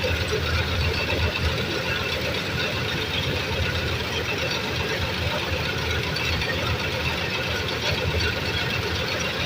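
Combine harvester running steadily while harvesting wheat, a constant engine and machinery drone with a strong low rumble.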